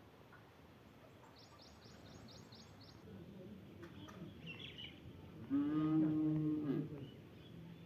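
A bird gives a quick run of about seven short high notes, with a few more chirps after. Then comes a louder, drawn-out low-pitched call lasting about a second and a half.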